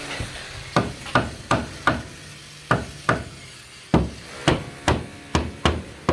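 Hammer blows, about a dozen sharp strikes in quick runs of two to five with short pauses between, as when nailing timber formwork.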